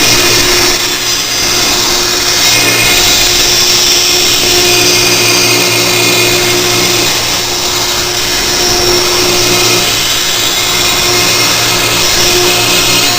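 CNC router running: a loud, steady spindle motor noise, with a few humming tones that come and go every second or two.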